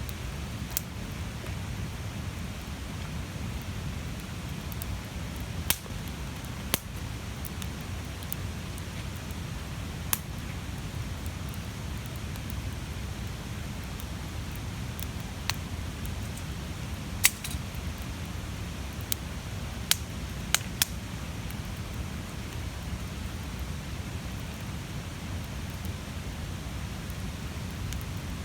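A large wood bonfire burning: a steady low rush of flame with sharp pops and crackles from the burning wood at irregular intervals, about a dozen, the loudest ones bunched around the middle.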